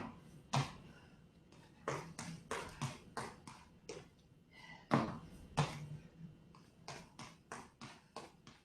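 Feet landing and tapping on the floor in an irregular series of short thuds, about two to three a second, as a person does squat thrusts with high knees running in place.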